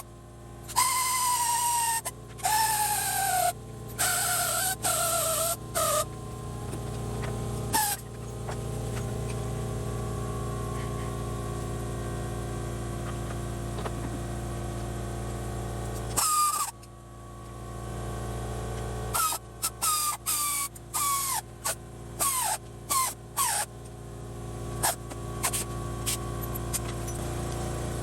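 Honda Live Dio (AF34) 50cc two-stroke scooter engine running, with repeated short squeals that fall in pitch, in clusters near the start and again from about two-thirds of the way through: the abnormal engine noise being checked.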